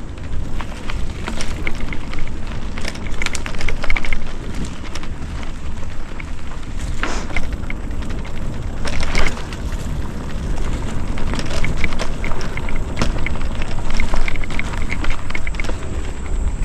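Mountain bike on a dirt trail: tyres crunching and crackling over twigs and roots with rattles from the bike, and a steady rumble of wind on the microphone.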